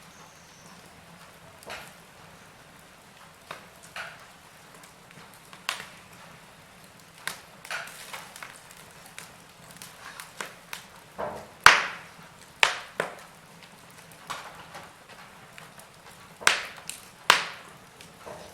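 Wood fire burning in a fireplace: irregular sharp crackles and pops from the logs over a faint steady hiss, with the loudest pops clustered about two-thirds of the way in and again near the end.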